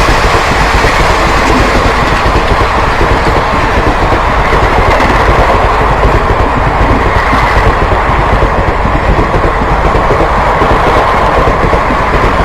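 Express passenger train passing close by at speed: a loud, continuous rush and rumble of the coaches running over the rails, with a faint steady ringing tone above it.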